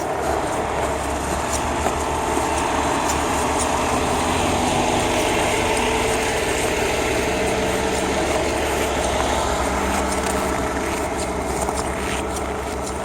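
Heavy logging truck engine running steadily at low revs, a little louder in the middle.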